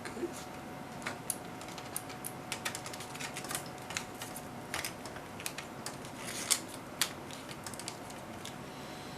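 Irregular small clicks and taps from handling the opened HP 3245A instrument and its parts, loudest a little past the middle. A faint steady tone runs underneath.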